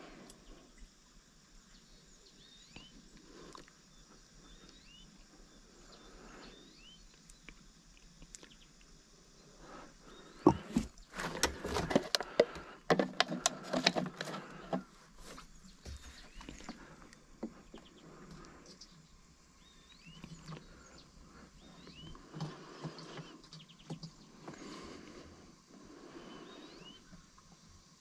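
Small birds chirping faintly over a quiet outdoor background. About ten seconds in comes a burst of about four seconds of clattering and sharp knocks, the loudest thing here.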